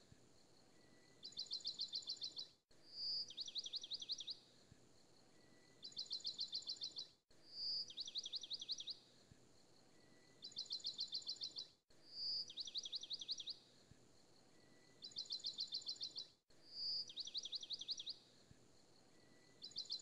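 Birdsong played as a short loop: a single high note, then a fast trill of downward-sweeping chirps, a pause and a second trill, the same phrase repeating about every four and a half seconds with an abrupt join each time.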